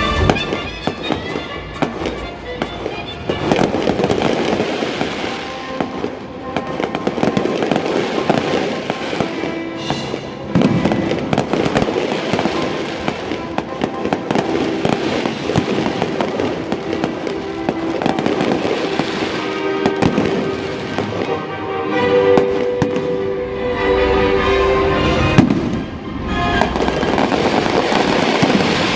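Fireworks bursting and crackling continuously, many reports in rapid succession, over orchestral music playing through stadium loudspeakers.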